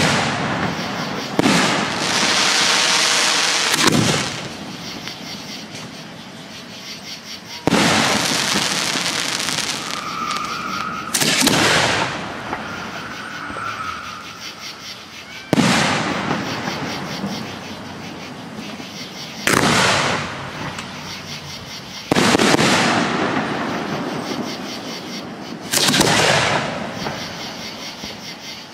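Aerial firework shells bursting overhead, about ten sharp booms a few seconds apart, each followed by a long fading hiss.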